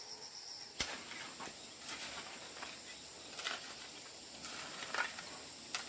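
A high, steady insect trill that stops within the first second, then a handful of sharp clicks and knocks at irregular intervals, some trailing into a brief scrape.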